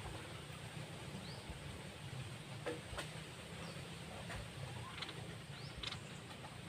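Caged songbird calling: a short rising chirp early on, then brief quick trills about five and six seconds in, over a steady low hum.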